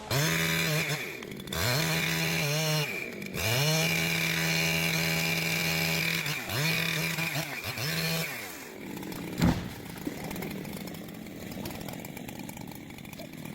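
Chainsaw engine held at high revs while cutting, dropping briefly and coming back up several times, then going quiet a little over halfway through. A single sharp knock follows about a second later.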